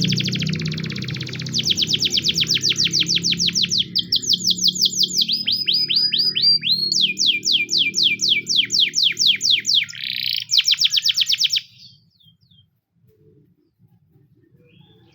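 Canary singing in fast rolls of high, steeply falling notes repeated several times a second, the rolls changing speed and pitch, then stopping abruptly about three-quarters of the way through. Soft background music plays under the song.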